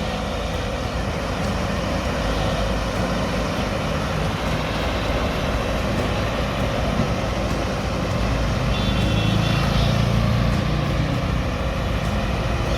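Heavy diesel engine of an excavator running under load, a steady low rumble that builds a little about nine seconds in as the machine works harder.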